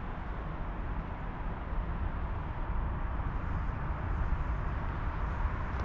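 Low, steady rumble of a train in the distance, slowly growing louder.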